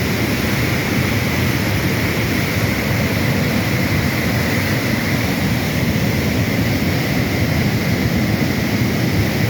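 Fast-moving flash floodwater rushing in a steady, loud torrent.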